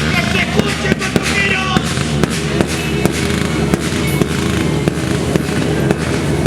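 Many sharp cracks and pops in quick, irregular succession, over music playing underneath.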